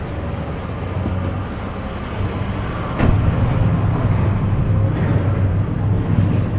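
Junk-removal truck's engine running steadily as it moves. There is a sharp knock about three seconds in, after which the engine sounds louder.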